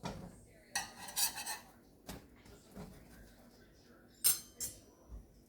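Metal kitchen utensils clinking and knocking against dishes and pans in a run of separate short strikes. There is a busier flurry of clatter about a second in and two sharp clinks near the end.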